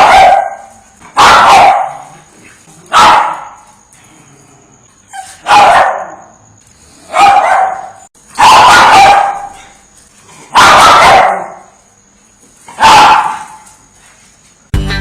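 A dog barking: about eight loud barks spaced a second or two apart, some of them drawn out. Music starts right at the end.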